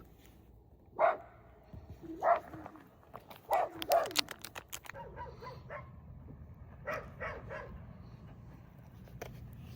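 A dog barking in short, separate barks, a few seconds apart, with a quick run of barks in the middle and again later.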